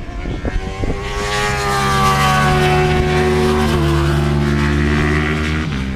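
Racing motorcycle engine running hard at high revs as it passes. It grows louder over the first second or two, then holds with its pitch slowly falling, and fades near the end.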